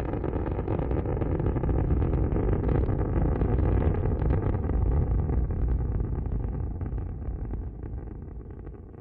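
Rocket engines during a launch: a loud, steady low rumble that fades over the last few seconds.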